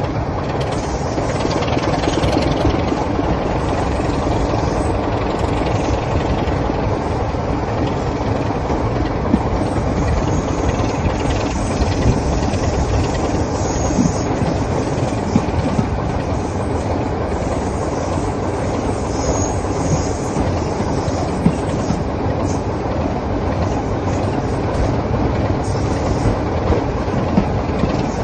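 A train in motion hauled by a Class 24 Sulzer Type 2 diesel locomotive, heard from an open window of the coach behind it. Steady engine and running noise, with scattered short sharp clicks from the wheels over the rail joints.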